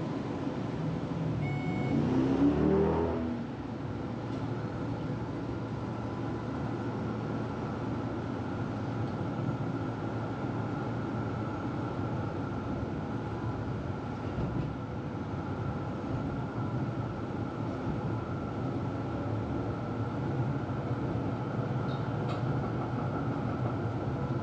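Melbourne tram running along the track: a steady rumble with constant whining tones, and a louder rising whine about two seconds in.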